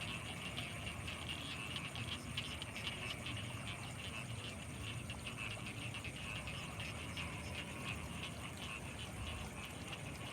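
Steady night chorus of many frogs, a dense, rapid clicking and trilling that never lets up, with a thin steady high tone above it.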